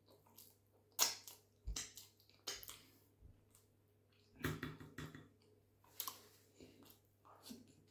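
Close-miked eating sounds: chewing and wet mouth clicks and smacks from eating chicken in a thick sauce by hand, with fingers squishing through the sauce on the plate. The sounds come in irregular sharp bursts, with a busier patch about halfway through.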